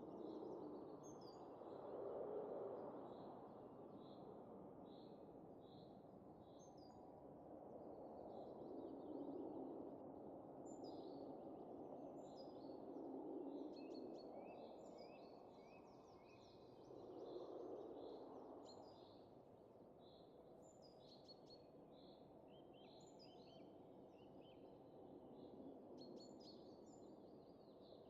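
Soft winter wind, gusts swelling and fading every few seconds, with small birds chirping in quick repeated notes throughout.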